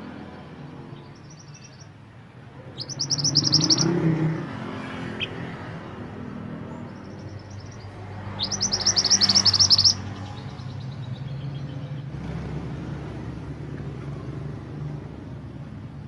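Mantenan gunung song: short bursts of rapid repeated high notes, two loud phrases about three and eight seconds in, with softer snatches between. A low engine-like rumble runs underneath.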